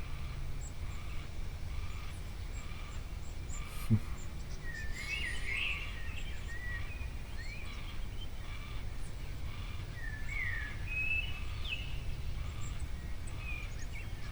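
Small birds chirping and twittering in short, gliding calls on and off, over a steady low rumble. A single sharp knock sounds about four seconds in.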